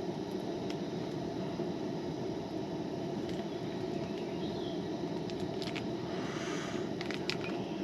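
A lit camp grill's burner running with a steady rushing hiss, with a few light clicks and taps near the end.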